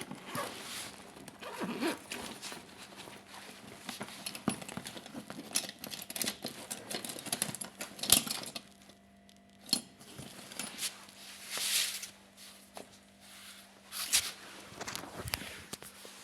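Irregular rustling, scraping and clicking, with a faint steady hum underneath: handling noise picked up by a phone left recording by mistake.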